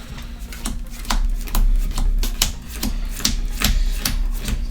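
Playing cards being flipped off a deck and slapped down onto the table one after another, a quick run of sharp clicks several times a second, as a player mills cards from the deck.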